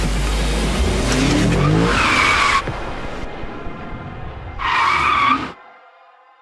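Lexus RC F tyres squealing in two bursts about two seconds apart, over car noise with a rising engine rev just before the first squeal. It cuts off abruptly, leaving a faint fading tone.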